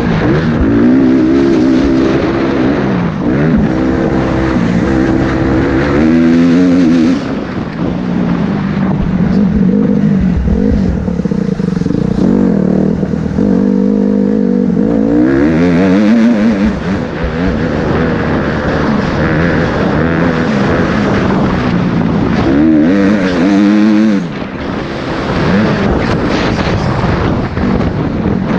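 Motocross bike engine revving hard, its pitch climbing and dropping again and again as the throttle opens and closes.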